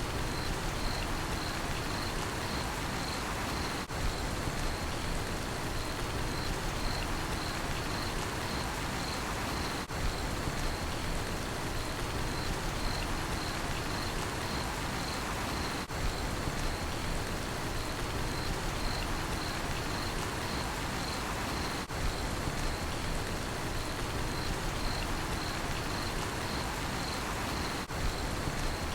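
Steady rain hiss, with a cricket chirping in an even, high-pitched pulse about two or three times a second.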